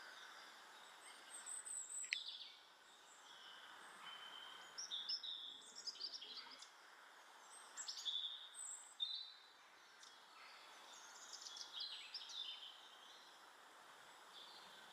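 Faint garden songbird calls and chirps in four short bursts over steady background noise.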